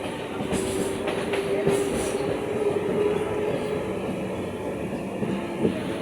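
Suburban electric local train running along the track: a steady rumble with a held hum that rises slightly, and a brief high hiss in the first couple of seconds.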